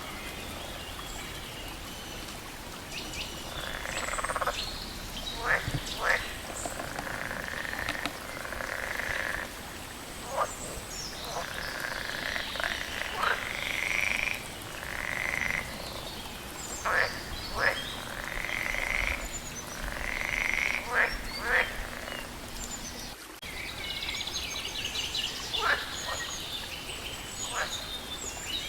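A chorus of frogs croaking over and over: short sharp calls mixed with longer drawn-out notes, overlapping throughout. A few higher bird calls are mixed in.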